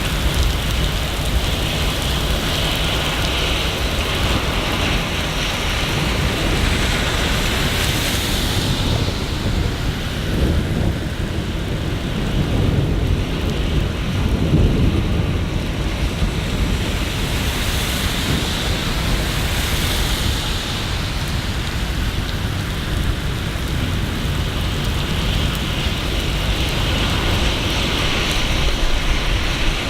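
Steady heavy rain falling, a dense hiss. A low rumble swells and fades again about a third of the way in.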